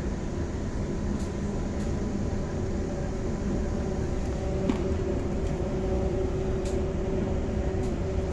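Inside the passenger cabin of a Queensland Rail NGR electric multiple-unit train running at speed. There is a steady low rumble of the wheels on the track, a steady hum running through it, and a few faint clicks.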